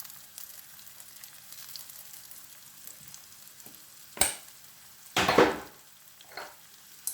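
Food frying in oil in a pan with a faint, steady sizzle, broken by a sharp click about four seconds in and a brief louder burst of noise a second later.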